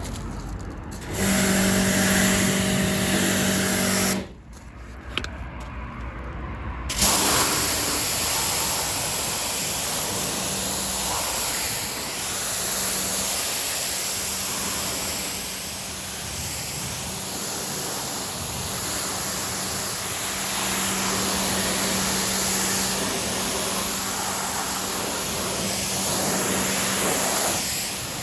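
AVA P80 pressure washer running: its pump motor hums steadily, cuts out about four seconds in, and starts again about three seconds later. From then on the high-pressure water jet hisses loudly as it sprays, with the motor hum rising and falling underneath.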